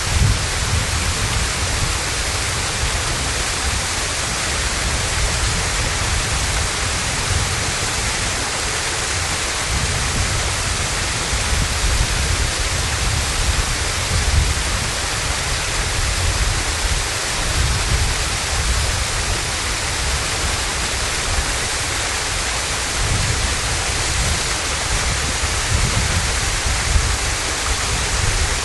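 Hossawa Falls waterfall: a steady rush of falling water with an uneven low rumble beneath it.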